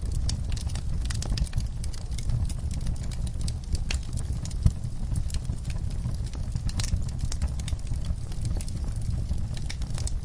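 Wood fire burning in a fireplace: irregular crackles and pops over a steady low rumble, with one sharper pop about halfway through.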